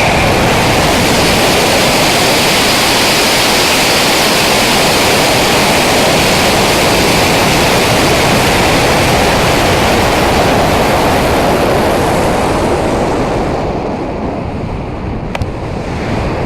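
High-power rocket launch: a loud, steady rush of noise from the solid-fuel motor and moving air, starting right at ignition. It eases and grows duller from about thirteen seconds in.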